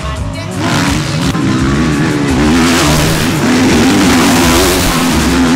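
Motocross bike engines revving hard, their pitch rising and falling as the bikes race.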